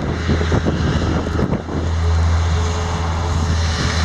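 A vehicle engine running with a steady low hum that gets louder about halfway through, over wind noise. Rustling and knocks are heard in the first couple of seconds.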